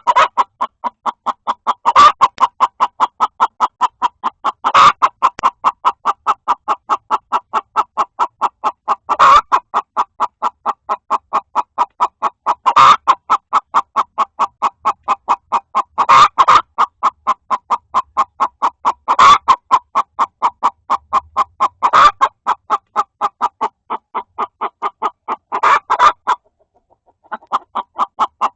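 Domestic hen clucking in a fast, unbroken stream of short, even clucks, several a second, with a louder squawk every few seconds and a brief pause near the end. The uploader takes it for one hen complaining at another hen laying in the nest box.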